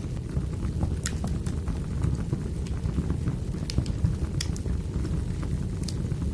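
Wood fire burning: a steady low rumble with sharp crackles and pops scattered irregularly through it.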